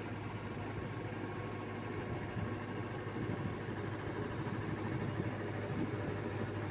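Diesel engines of heavy road-paving machinery running steadily, with a constant low drone.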